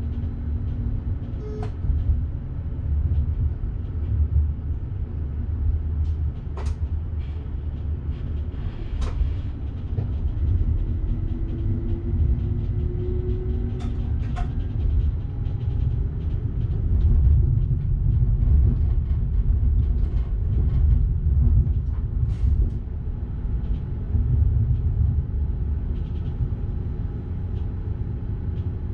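Electric passenger train running on the line, heard from the driver's cab: a steady low rumble with scattered clicks and knocks, and a faint whine rising briefly about halfway through.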